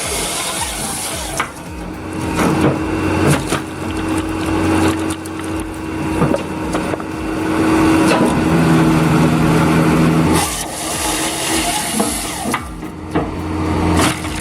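An engine-driven machine running steadily while handling wood, with repeated sharp knocks and cracks of wood. Partway through, a second steady machine tone, likely hydraulics under load, joins in for about two seconds.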